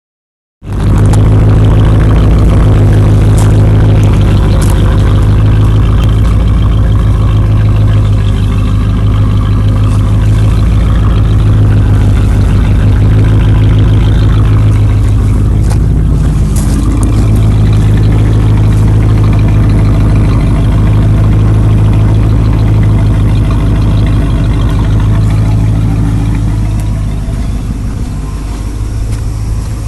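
1994 Ford F150's 5.0-litre (302) V8 idling through a completely straight-piped exhaust, loud and steady. It gets somewhat quieter near the end.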